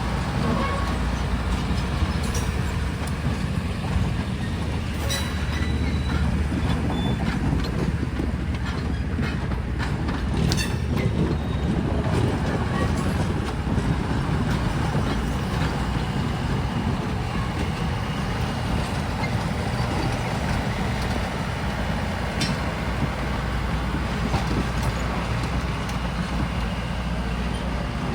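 Train rolling past: a steady low rumble of railcars on the track, with a few sharp clicks and short high squeaks from the wheels.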